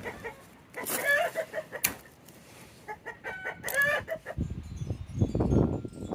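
Chickens clucking, two short calls about one and four seconds in, with a single sharp click between them. A low rumbling noise comes in near the end.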